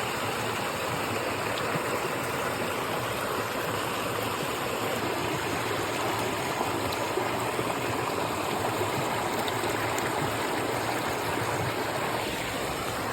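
Running water of a stream or small cascade, a steady, unbroken rush.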